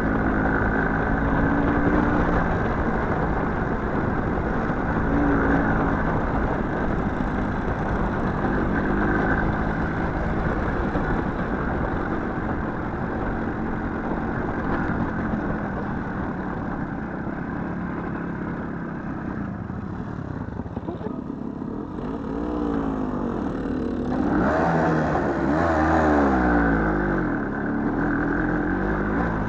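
Small motorcycle engine running under way on a forest ride, steady at first, then revving up and down several times in the last third.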